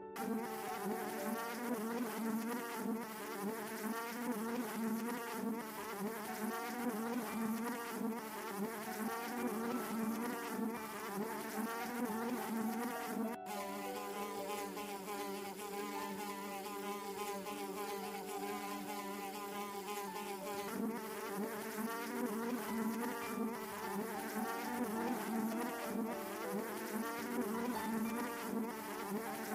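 Flying insects buzzing, several wingbeat tones overlapping at slightly different pitches; the sound cuts abruptly to a new take about 13 seconds in and shifts again around 21 seconds.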